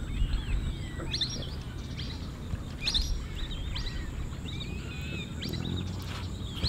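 Birds chirping outdoors: scattered short calls that rise and fall in pitch, starting about a second in and repeating irregularly, over a steady low background noise.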